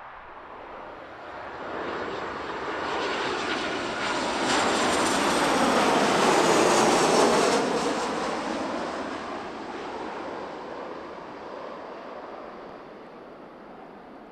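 An airliner passing close by: its engine noise swells over several seconds, peaks about seven seconds in, then fades with a falling pitch as the aircraft moves away.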